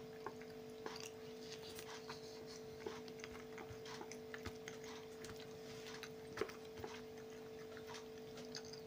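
Quiet chewing and mouth sounds of a man eating beet vinaigrette salad with bread, with scattered small clicks of a fork in a plastic tub, over a steady low electrical hum.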